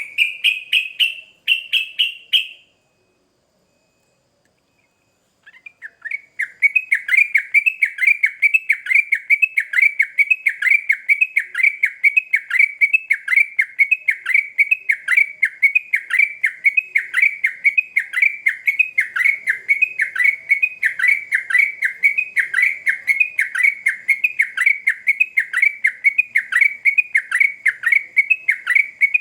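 Yellow-vented bulbul (trucukan) singing. A short phrase of rising notes is followed by a pause, then a long, fast run of evenly repeated chattering notes, the sustained rapid song keepers call 'ropel'.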